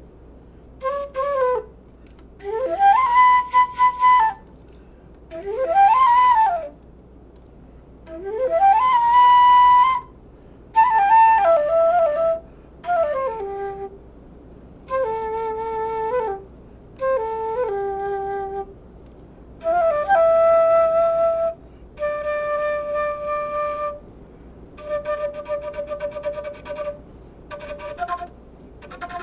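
Curved-neck flute playing a slow, free melody in separate phrases with pauses between them; several notes slide up to a held tone and fall away again.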